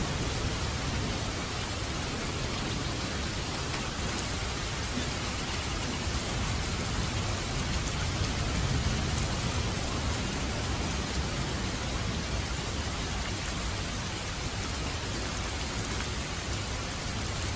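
Steady, even rainfall hissing. A low rumble swells and fades about halfway through.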